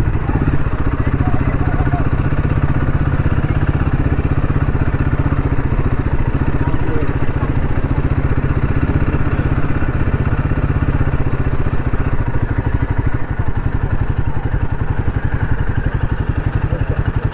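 Motorcycle engine running steadily at an even speed, its exhaust pulses close together, with no revving up or down.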